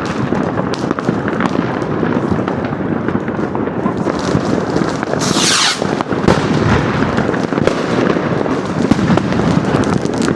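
New Year's Eve fireworks: a continuous, dense crackle of firecrackers and bangs, with a brief hiss falling in pitch about five seconds in, like a rocket going up.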